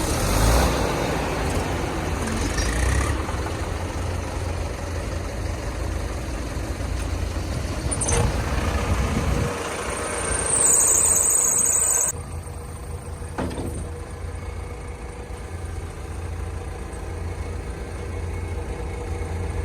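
Diesel engine of a heavy earth-moving machine or tractor running with a steady low rumble. About halfway through there is a loud high hiss lasting a second or two.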